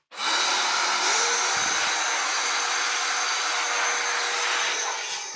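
Vacuum cleaner switched on and running steadily, a loud rushing of air with a steady hum under it, vacuuming dust out of a laptop's base cover.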